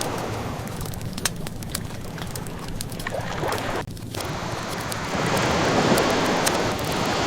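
Ocean waves washing in as a steady hiss that swells about five seconds in, with the small pops and crackles of a burning wood fire scattered over it. The sound cuts out for a moment near the middle.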